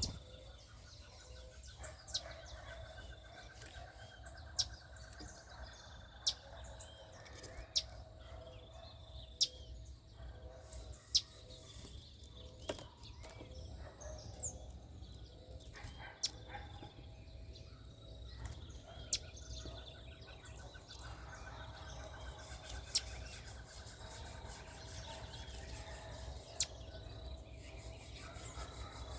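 Small birds giving short, sharp, high chirps every second or two, with a rapid trill sounding twice.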